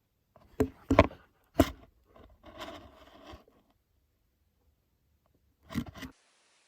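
A few sharp knocks and clatters, a scraping rustle in between and another knock near the end: parts or tools being handled and set down during car repair work.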